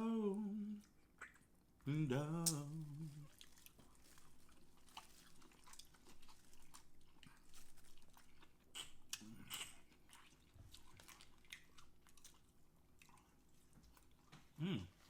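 Close-miked chewing and mouth sounds of people eating a seafood boil: scattered wet smacks and small clicks. Two short voiced 'mm' hums come in the first three seconds.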